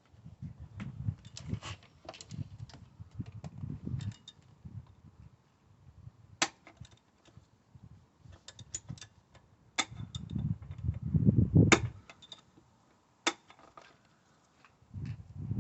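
Screwdriver tip scraping and clicking against the plastic release clip of the camshaft position sensor's wiring plug, with several sharp clicks and rustling handling noise, as the plug is worked loose.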